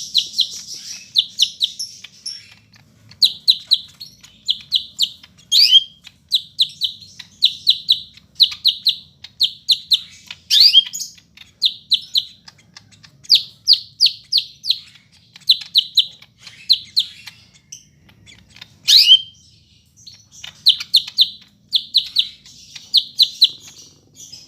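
Greater green leafbird (cucak hijau) singing: quick runs of three to five short, clipped chirping notes repeated with brief gaps, broken about four times by a loud note that sweeps down in pitch.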